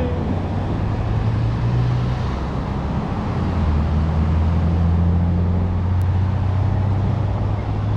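Steady wind and road noise while riding an e-bike, with a low steady hum underneath that drops slightly in pitch about three seconds in.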